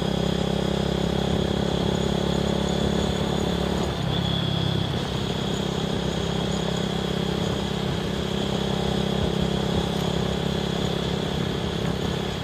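Single-cylinder motorcycle engine running steadily at riding speed on a dirt road, with wind rush over it. The engine note drops slightly about four seconds in.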